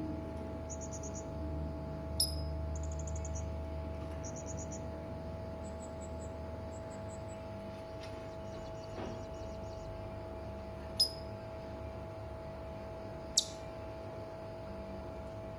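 Serindit hanging parrot calling: three sharp, very high calls, each dropping in pitch, about two seconds in, near the middle and later on, with several short high rattling trills between them. A steady electrical hum lies underneath.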